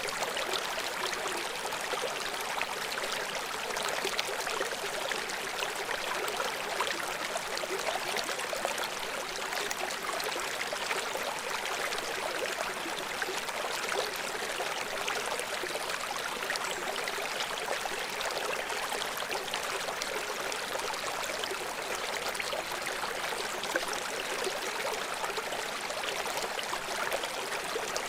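A river stream flowing: a steady, even rush of water with no deep rumble.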